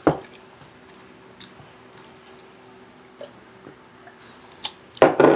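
Close-up eating sounds: chewing and squishing mouth sounds over a mouthful of rice and Bicol Express, with scattered small clicks. A sharp knock comes at the start and a louder, rough burst about five seconds in, over a faint steady hum.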